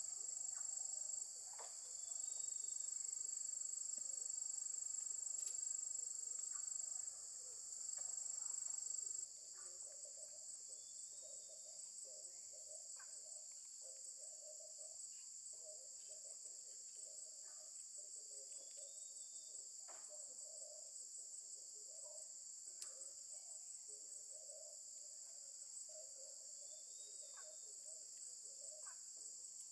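Insects trilling steadily at a high pitch, the sound dipping briefly a couple of times in the first nine seconds, with faint scattered clicks.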